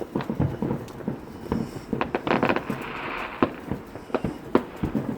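Fireworks going off: a string of irregular pops and bangs, with a hissing stretch about two to three seconds in.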